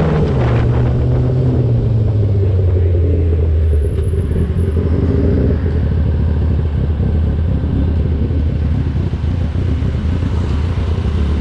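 2003 Yamaha YZF-R6 inline-four engine with an SC-Project exhaust. The revs drop off in the first second, then the engine runs at low, steady revs for the rest of the time.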